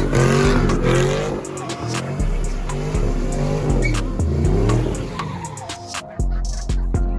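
A car engine revving up and down with tyres squealing in a burnout, over music with a heavy bass and a steady beat.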